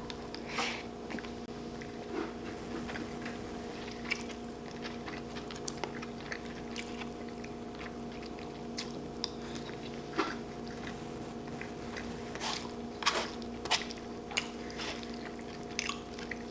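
Close-miked chewing and biting, with scattered small crunches and mouth smacks, over a steady low hum.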